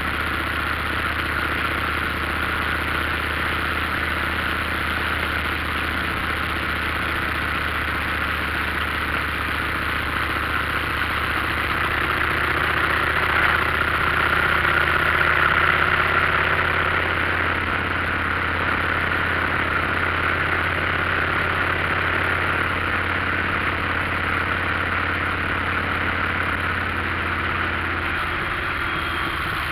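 Motorcycle engine running steadily under a constant hiss, growing a little louder for a few seconds midway.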